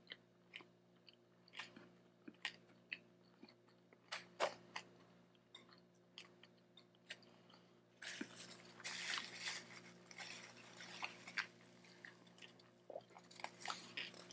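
Faint close mouth sounds of a person chewing a sweetbread taco: soft wet chewing with scattered small crunches and clicks, busiest about eight to ten seconds in and again near the end.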